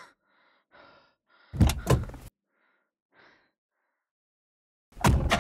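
Car doors slamming shut twice, about a second and a half in. Near the end a car engine comes in loudly as the car sets off.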